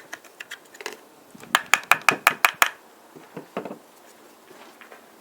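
Tools and chainsaw parts being handled: a quick run of about eight sharp taps a little over a second and a half in, then a few lighter knocks.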